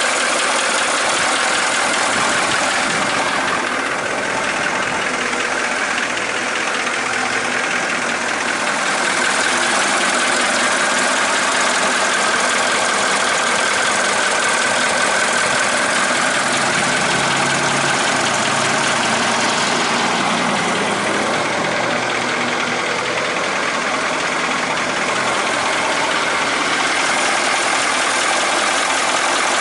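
Caterpillar 3208 V8 diesel of a 1977 International fire engine idling steadily.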